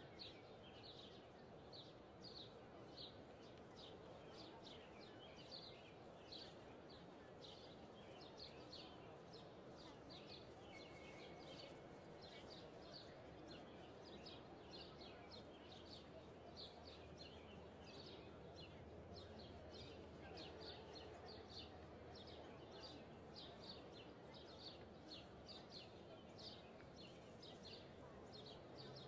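Faint birdsong: short, high chirps repeating about twice a second, over a soft steady hiss of background noise.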